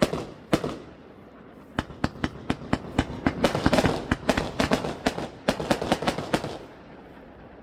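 Fireworks going off: two bangs, then a rapid run of sharp cracks and bangs that dies away about a second before the end.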